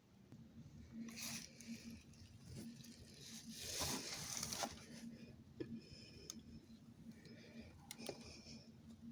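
Faint rustling and scattered clicks, with a louder stretch of rustling a little before the middle, over a low steady hum.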